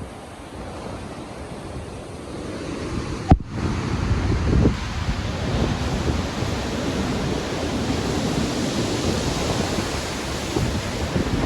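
Stormy ocean surf and wind: a dense, steady wash of breaking waves. A brief sharp click comes about three seconds in, after which the surf grows louder and brighter and swells a few seconds later.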